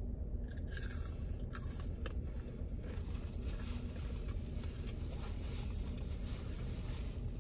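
Chewing a breaded fried chicken nugget, with crisp crunches mostly in the first three seconds, over a steady low hum inside a car.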